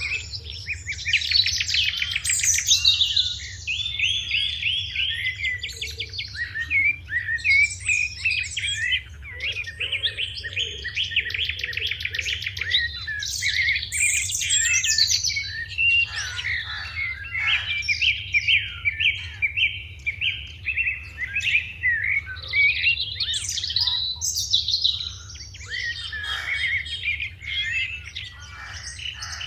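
A flock of sparrows chirping continuously, many short calls overlapping, with quick trills mixed in.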